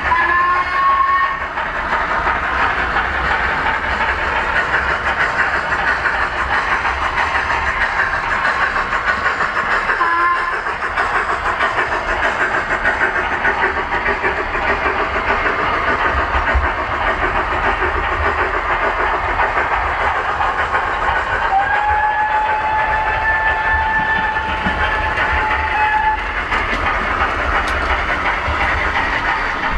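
OO gauge model steam locomotive's sound running: a continuous rushing steam chuff, with whistle blasts in two notes. There is a short blast near the start, a brief toot about a third of the way in, and a longer whistle in the last third.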